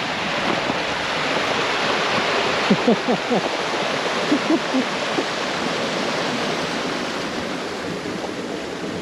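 River water rushing through partly frozen rapids, a steady rushing noise, with a few short gurgles about three seconds in and again around four and a half seconds.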